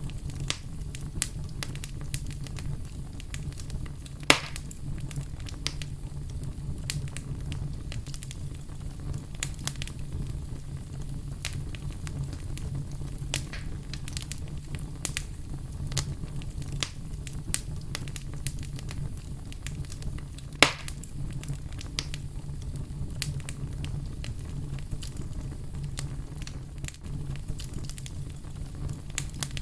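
Fire burning with a steady low rumble and frequent irregular crackles, and two sharper, louder pops, one about four seconds in and one about twenty seconds in.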